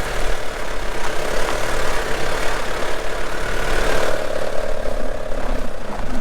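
Land Rover Series IIA engine running steadily, with a low mid-pitched drone that grows a little stronger about four seconds in.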